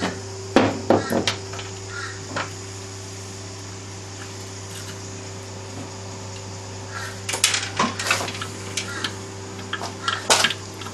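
Metal hand tools and sockets clinking and clattering against each other and the VW engine parts, as tools are sorted out to reach the connecting-rod bolts. The clinks come in short clusters near the start and again about seven seconds in, over a steady low hum.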